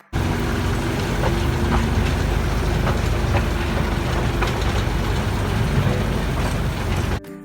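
Small narrow-gauge tourist train running, heard on board: a steady rumble and hiss of the wheels and drive, with a few light clicks from the track. It cuts off suddenly near the end.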